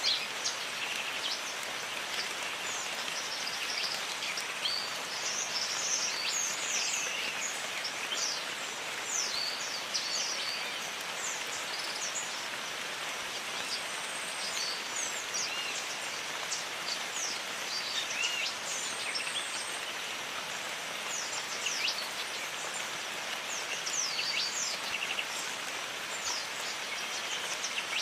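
Steady rain in a jungle, a constant hiss of rainfall, with birds calling in clusters of short, quick high chirps.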